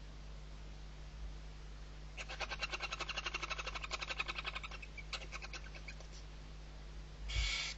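Barn owl chick calling: a rapid, evenly pulsed chittering trill lasting about three seconds that trails off, followed near the end by a short rasping burst.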